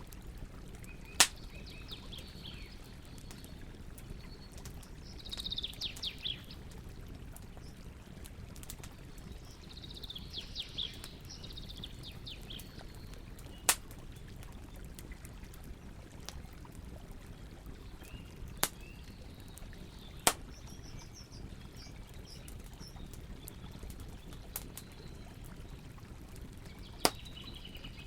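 Campfire burning with a steady low rush and about five loud, sharp pops of the burning wood, while songbirds sing in short bursts.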